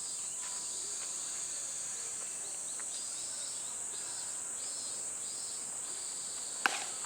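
Insects calling: a steady high-pitched drone with fainter chirps pulsing about every half second. A single sharp click comes near the end.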